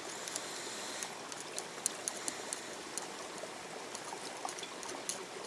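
Water trickling and splashing as sediment is gently washed out of a hand scoop during gold panning, rinsing off the light material so the heavy particles stay behind. Small clicks and splashes are scattered throughout over a steady run of water.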